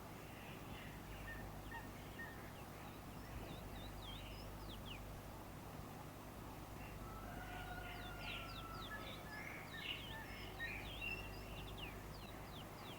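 Small birds chirping faintly in short, quick downward-sliding notes, a few at first and then many together in the second half, over a steady low rumble.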